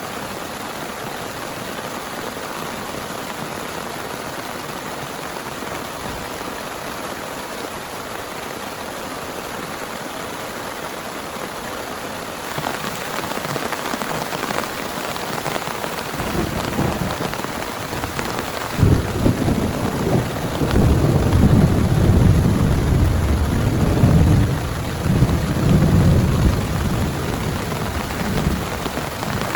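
Heavy rain falling steadily, getting a little heavier about twelve seconds in. From about sixteen seconds a long roll of thunder rumbles in, loudest for most of the last ten seconds before easing near the end.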